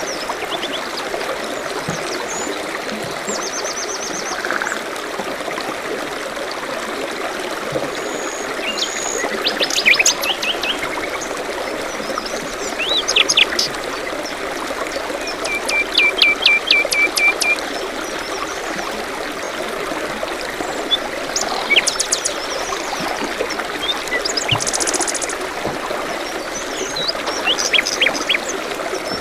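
Small forest stream trickling steadily, with songbirds calling over it in short scattered phrases: chirps and trills, including a quick run of repeated notes about halfway through and a high buzzy call a little later.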